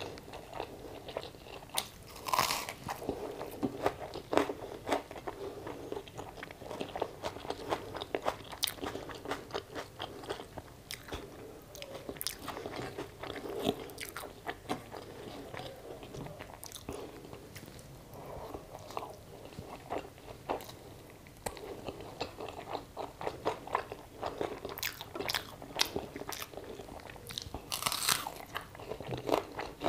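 Close-miked eating with the fingers: crisp bites into raw onion and fried potato, with chewing and wet mouth sounds. The loudest crunches come about two seconds in and again near the end.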